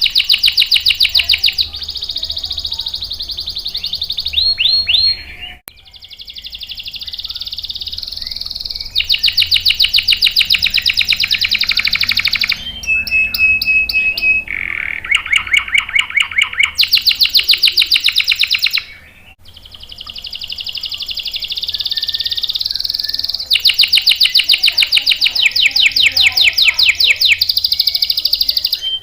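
Domestic canary singing long, very rapid high trills (rolls) in phrases a few seconds apart, with a short steady whistled note partway through.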